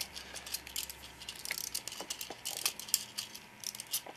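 Wind-up toy train running on its small track, making irregular light clicks and rattles.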